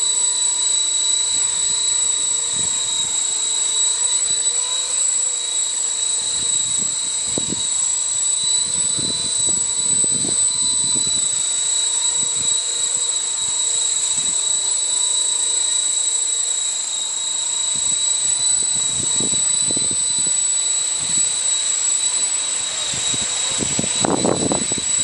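Electric RC helicopter (Blade CP Pro) in flight: a steady high-pitched whine of its motor and rotor, with gusts of wind buffeting the microphone.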